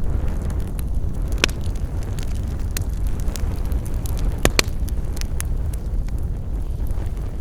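Campfire burning: a steady low rumble with scattered sharp crackles and pops from the burning wood, the loudest pops about one and a half seconds in and again around four and a half seconds.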